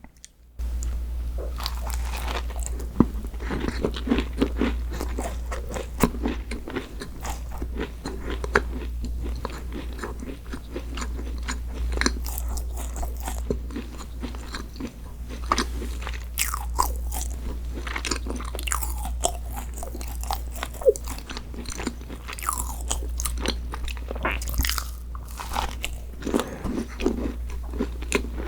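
Close-miked eating: crunchy bites and chewing of a sweet dessert, with dense crackling clicks over a steady low hum.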